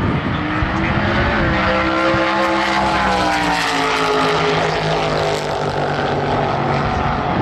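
Drag-racing car's engine running at high revs, its pitch climbing for about two seconds, then slowly falling away.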